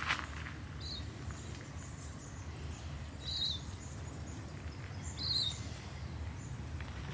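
Outdoor bush ambience: a continuous high-pitched pulsing insect trill, with short bird chirps about one, three and five seconds in. A single footstep on the path right at the start.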